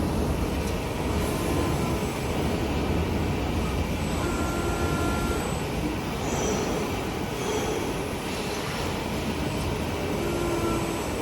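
Steady industrial machinery noise with a few brief high squeals about four, six, seven and ten seconds in.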